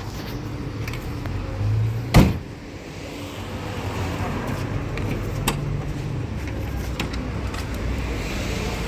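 A steady low rumble with one loud, sharp thump about two seconds in.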